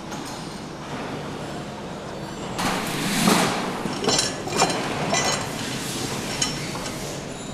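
A handful of separate clinks and knocks of hard objects being handled or set down. They start a little before halfway through, with the loudest about a second later, over a steady background hiss.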